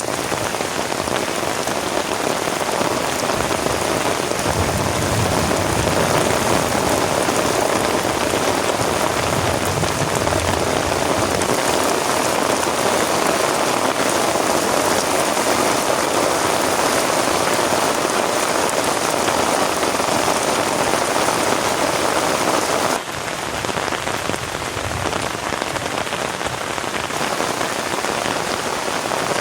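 Heavy rain falling steadily, a dense even hiss of drops. About 23 seconds in it changes abruptly to a slightly quieter, thinner rain.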